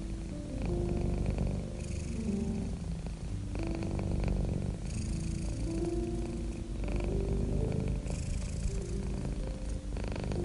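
Domestic cat purring continuously: a dense, low, pulsing rumble, sold as a 25 Hz low-frequency purr. Soft sustained music notes move slowly above it.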